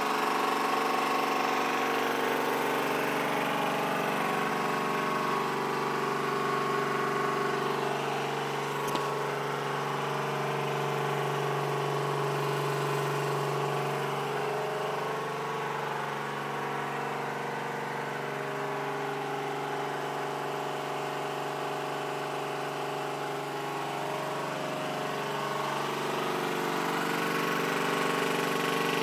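An engine running steadily at idle: a continuous droning hum with several steady tones.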